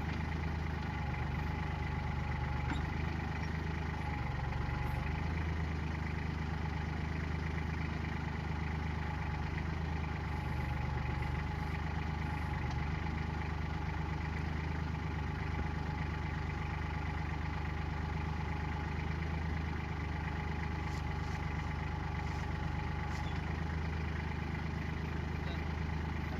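Tractor engine running steadily at an even speed while its backhoe is being worked.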